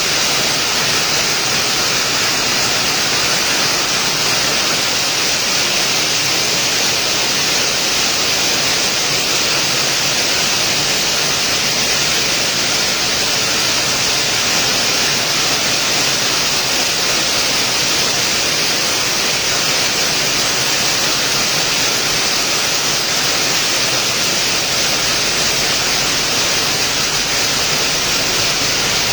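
Steady, heavy rainfall making an even hiss with no let-up.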